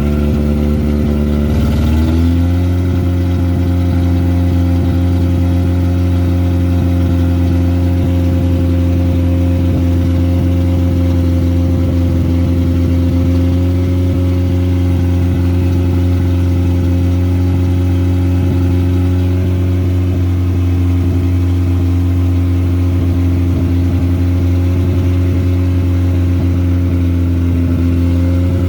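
Car engine running at a steady idle. Its pitch rises slightly about two seconds in, then holds level.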